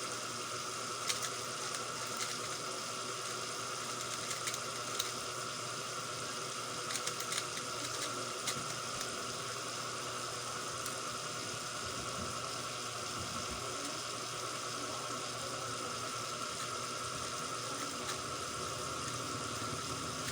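Steady background hum and hiss, with scattered faint clicks in roughly the first half from an X-Man Tornado V3M 3x3 speedcube being turned.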